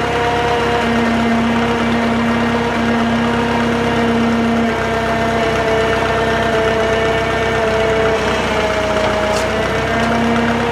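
Drott 85RM2 crane's engine running steadily under the lift, a steady hum with a few held tones, one of which sags slightly in pitch about eight to nine seconds in.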